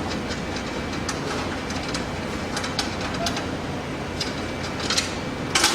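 Light metallic clicks and clinks of steel wood-stove parts being handled as the stove is taken apart, with a louder clatter near the end, over a steady background hiss.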